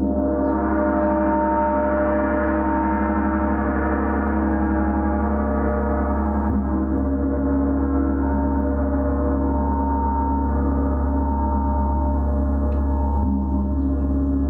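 Gong played in a continuous shimmering wash: many overlapping tones ring on over a deep steady hum, with a fresh swell of brighter overtones right at the start and another slight swell near the end.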